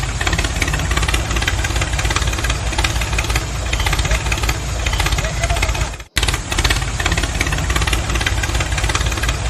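Construction-vehicle engine running with a rapid knocking clatter, cutting out abruptly for a moment about six seconds in.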